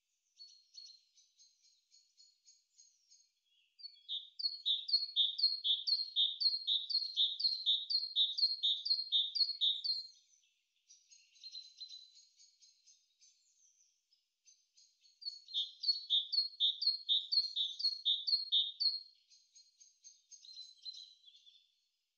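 Birdsong: soft, high twittering, broken twice by a loud run of repeated downward-sweeping notes, a little over two a second, each run lasting several seconds.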